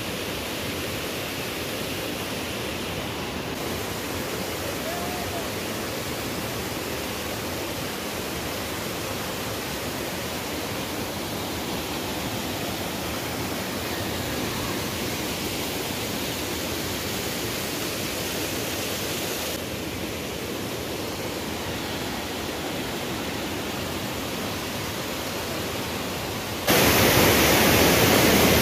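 Steady rush of a waterfall and water cascading over boulders, an even hiss without rhythm. Near the end it suddenly grows much louder.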